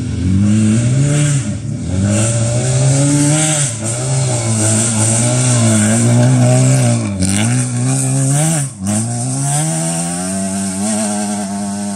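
Rally car engine revving hard on a dirt special stage, its pitch climbing and dropping again and again as it shifts and lifts through corners, with two sharp drops in revs in the second half.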